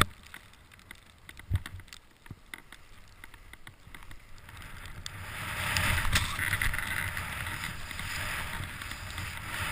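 Rush of snow sliding under a rider picking up speed, swelling from about four seconds in and staying up, with wind on the camera's microphone. Before that, a few scattered knocks and scrapes over a low hiss, the loudest about a second and a half in.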